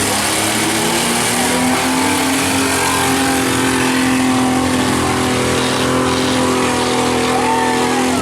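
Several demolition-derby compact truck and van engines running hard together, their pitch held fairly steady.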